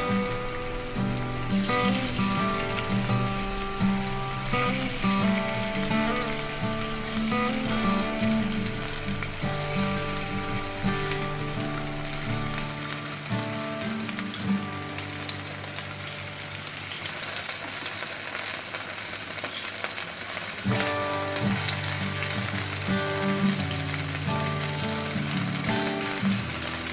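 Chicken breast strips sizzling steadily as they fry in shallow oil in a nonstick frying pan, with background music over it that fades for a few seconds in the middle.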